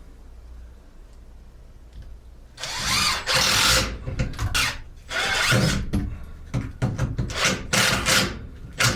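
Screw gun driving screws into wood: a quiet start, then about two and a half seconds in a run of short motor bursts, the first about a second long and the rest shorter, stopping and starting between screws.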